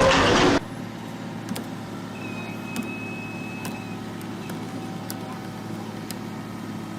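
A loud noisy sound cuts off abruptly about half a second in. A vehicle engine then runs steadily at a low level, with a brief high tone and a few faint clicks.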